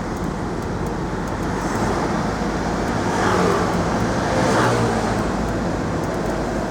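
Car on the move: steady road and traffic noise, swelling louder from about three to five seconds in.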